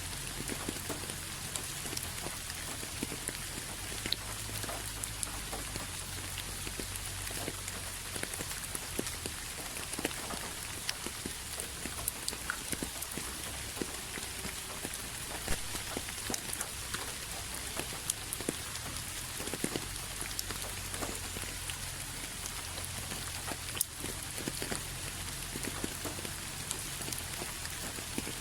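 Steady rain falling, a dense even hiss with scattered individual drops ticking, over a low rumble.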